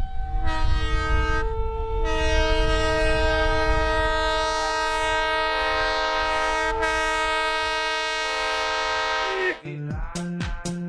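A locomotive's multi-note air horn sounds a chord over the low rumble of the moving train: a short blast, a brief break, then one long blast that cuts off near the end.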